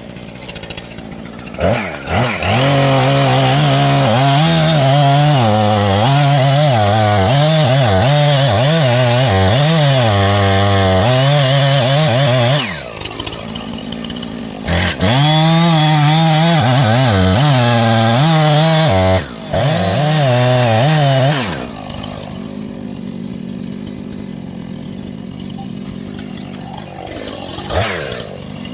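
Chainsaw running hard in two long runs with a short break between, its pitch rising and dipping repeatedly as it works under load in the cut.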